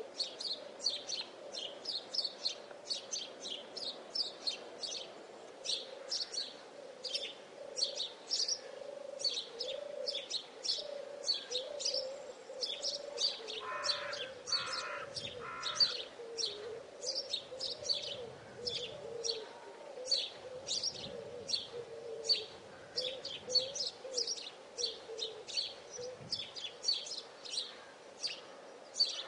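Birds chirping in short high calls, about three a second, over a lower wavering call. Three brief lower notes come about halfway through.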